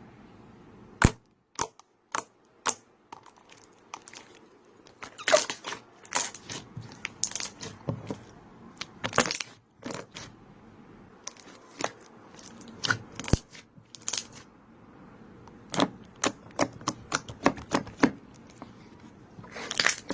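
Clear slime being squeezed and pressed by hand, giving irregular sharp clicks, pops and short crackles.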